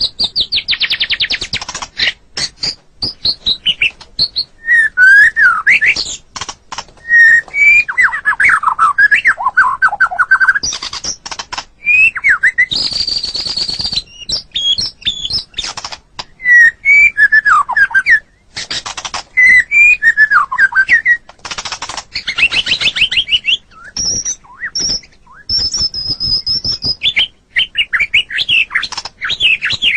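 White-rumped shama (murai batu) singing a continuous, varied song: clear whistled phrases that glide up and down, fast trills, and harsh buzzy notes in between, with only brief pauses.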